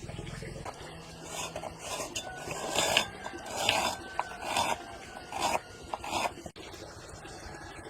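A series of rough scraping strokes at an uneven pace, roughly one a second, with a low hum that stops under a second in.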